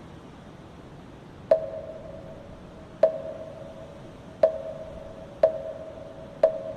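Moktak, the Buddhist wooden fish, struck five times with a mallet. Each strike is a hollow wooden knock with a short ring, and the strikes speed up from about a second and a half apart to about one second apart. They start about a second and a half in, over a steady rush of wind.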